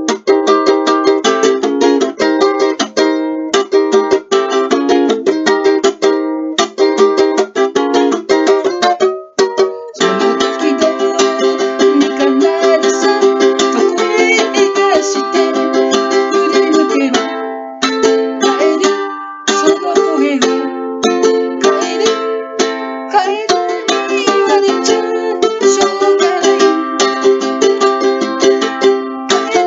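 Ukulele strummed in a steady rhythm of chords, with brief pauses about nine seconds in and again near the middle.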